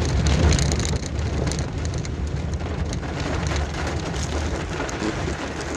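A vehicle on the move, with a steady low rumble of engine and road noise. Many small ticks and taps are scattered over it, fitting rain striking the vehicle.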